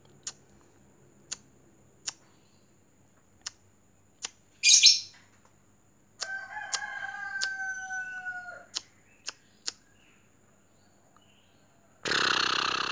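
A rooster crows once, a long call of about two and a half seconds that falls slightly in pitch, amid scattered sharp clicks. There is a short loud noisy burst a second before the crow and a longer one near the end.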